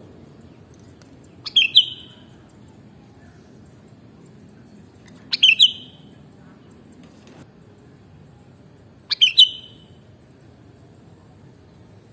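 Sooty-headed bulbul (kutilang) giving three short, bright call phrases about four seconds apart, over a steady low background hiss.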